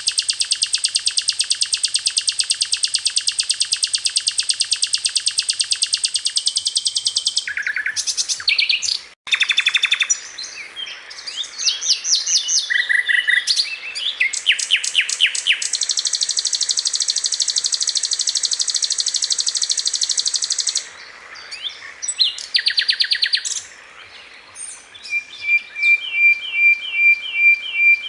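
Songbird song on a bird-tutoring (masteran) track: long, fast buzzing trills alternate with varied sharp chirps and whistles, and the pattern changes every few seconds. Near the end comes a run of short repeated notes, about two a second.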